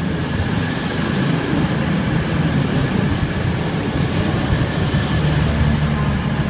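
CrossCountry Class 220 Voyager diesel-electric multiple unit pulling away under power, its underfloor diesel engines giving a steady low drone.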